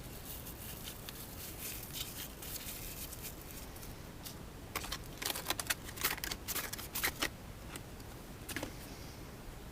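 Hands handling small packaged parts and packaging: light rustling, then a quick run of sharp clicks and taps about five seconds in, with one more click near the end.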